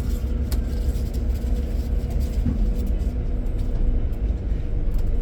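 Steady low rumble of a Scania K410IB coach's diesel engine heard inside the passenger cabin, with a steady hum over it.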